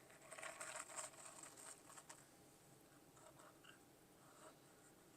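A round measuring spoon pressed into a sticky chocolate-coated cocoa rice cereal mixture, the crisp cereal crackling faintly. The crackling is densest for the first two seconds, then thins to scattered soft crackles.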